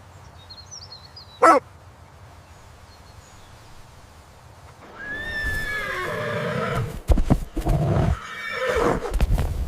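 A loud animal call of about four and a half seconds, starting high and falling in pitch, then breaking into quick shaky pulses. It is preceded by a short sharp squeak about a second and a half in.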